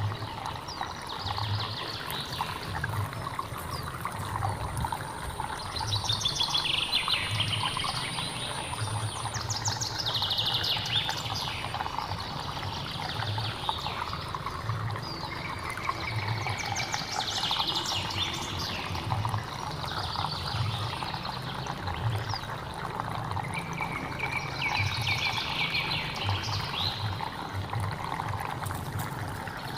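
Hill stream running steadily, with a wild bird singing short repeated phrases every few seconds over it. A thin, high, steady tone sounds for several seconds near the start.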